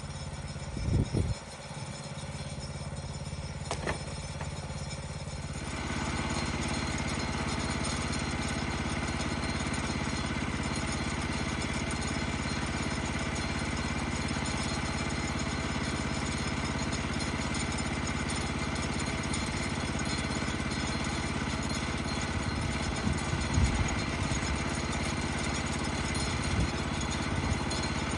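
Engine running steadily, its sound growing louder and fuller about six seconds in, with a few short low thumps near the start and again near the end.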